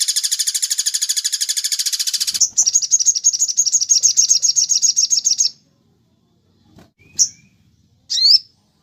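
Recorded bird song: a very fast, high rattling trill that breaks about two and a half seconds in and at once starts again in a slightly different form for another three seconds, then two short chirps near the end.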